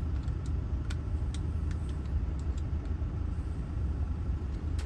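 Steady low rumble of a vehicle engine idling, with scattered small metallic clicks from handling the parts of a Honda ignition lock cylinder.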